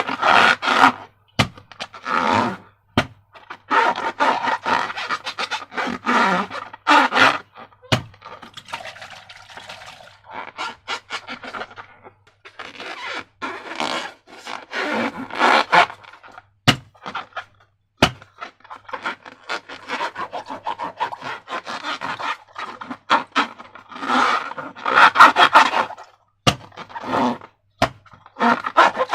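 Slime being worked by hand with transparent balloons: irregular bursts of fine crackling and scraping, broken by short pauses and a few sharp single clicks.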